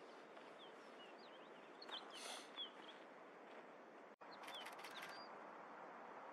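Faint, short, high chirps of a small bird in two brief flurries, over a steady low hiss of outdoor background noise. The sound drops out for an instant about four seconds in.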